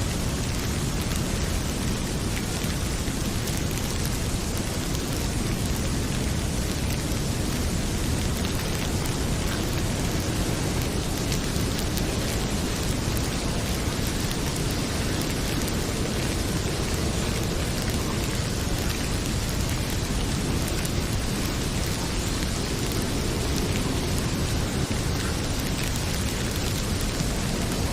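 Heavy rain falling steadily with a low rumble, mixed with the light crackling of a wood fire in a fireplace.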